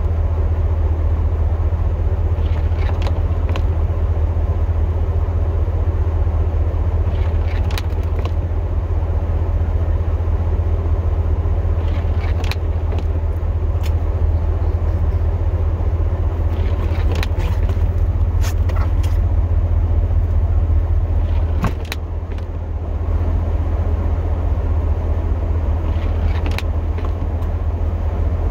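Pickup truck's engine idling, heard from inside the cab: a steady low hum with a few faint clicks scattered through it and a brief drop in level about three quarters of the way through.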